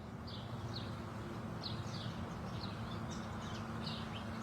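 Small birds chirping: many short, high chirps, several a second, over a steady background hiss and a low hum.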